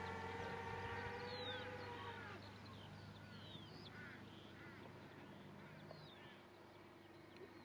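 Many short bird calls, chirping faintly again and again, over a steady hum that fades out about two seconds in.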